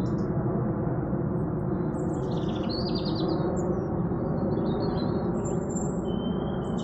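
Small garden birds chirping, with short high twitters and trills scattered throughout, over a loud, steady low drone.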